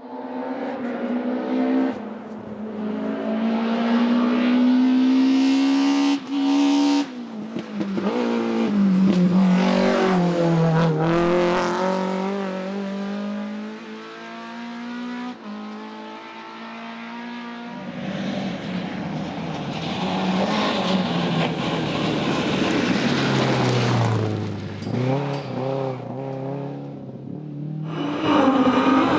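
Historic rally cars' engines revving hard at full throttle, the pitch climbing and then dropping at each gear change or lift, in several passes cut one after another.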